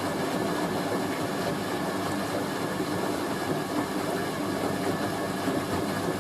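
Hoover A3060 Electronic 1100 washing machine running steadily through the last part of its final rinse, a continuous even rumble without distinct knocks.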